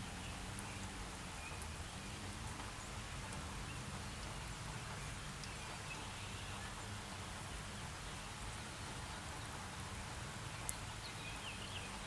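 Steady hiss of light rain falling. There is a single sharp click just before the end, and a few faint short chirps near the end.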